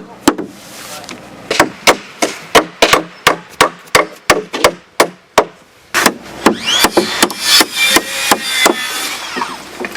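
Hammering: sharp knocks repeated about three times a second. From about six and a half seconds a high scraping squeal runs over the blows for around three seconds.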